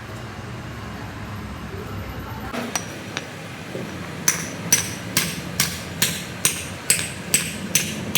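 Hammer striking steel, likely at a hydraulic cylinder pin. Two light taps come first, then from about four seconds in a steady run of ringing metallic blows, about two a second.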